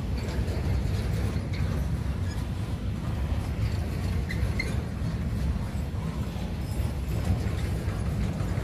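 Freight train of container-carrying wagons rolling past: a steady low rumble of steel wheels on the rails, with faint intermittent clicks.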